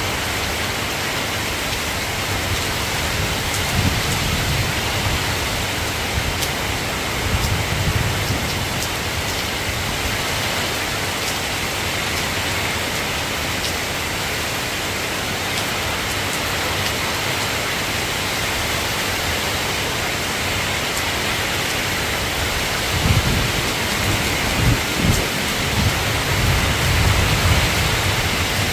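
Steady rain hiss, with low rumbles of distant thunder rolling in about 4 and 8 seconds in and again through the last few seconds.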